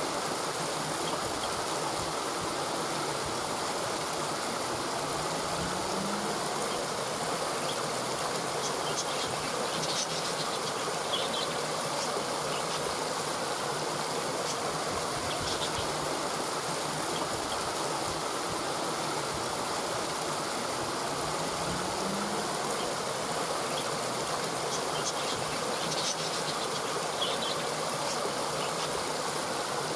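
Steady rushing water of a flowing stream, with a few faint high chirps over it. Twice, a brief low rising sound.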